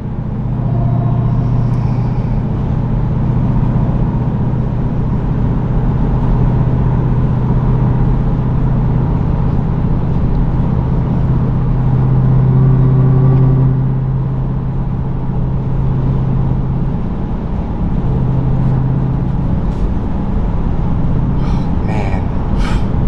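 Supercharged 6.2-litre V8 of a 2023 Dodge Durango SRT Hellcat with its mufflers cut off, running steadily while driving: a low, even exhaust drone that swells slightly about twelve seconds in and eases back a couple of seconds later.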